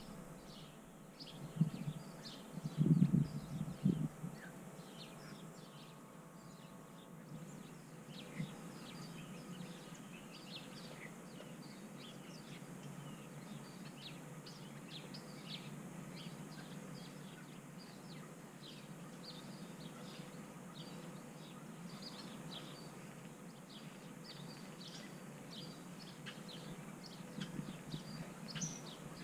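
Small backyard birds chirping and calling, many short high chirps in quick succession throughout. A few dull low thuds come about two to four seconds in.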